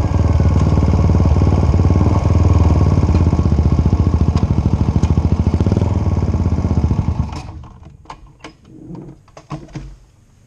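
Suzuki Satria FU 150's single-cylinder four-stroke engine idling through a gutted (bobokan) CKD muffler, with a steady, rapid exhaust pulse. A little after seven seconds the engine is switched off and winds down, followed by a few small clicks and knocks.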